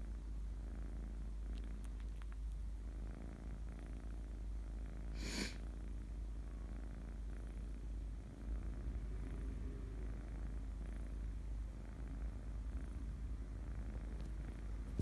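A sleeping kitten purring steadily. There is one short noise about five seconds in.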